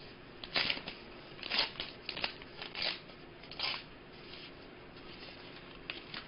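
Wrapper of a 5x7 hockey card pack being opened by hand, rustling and crinkling in about five short bursts, then going quieter for the last couple of seconds.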